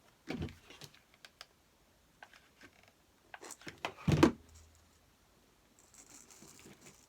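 Handling noise from attaching small ornaments to a wreath: scattered light clicks and taps, with one louder knock about four seconds in and a faint rustle near the end.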